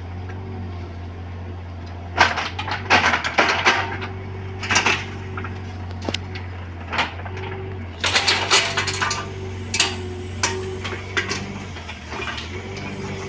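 Bobcat 322 mini excavator's diesel engine running steadily, with bursts of sharp clanks and knocks from the bucket working soil and stones, a couple of seconds in and again about eight seconds in.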